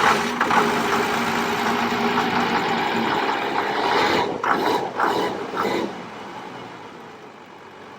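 1996 Cummins 12-valve 5.9-litre inline-six diesel running just after firing up, loud with a few brief surges, then settling to a quieter idle about six seconds in. It is the first start after a crank-no-start, once fuel pressure was up, and it stays running.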